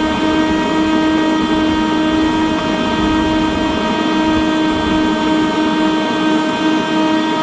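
Two leaf blowers running steadily at full speed: a constant high whine over rushing air, with a low rumble beneath.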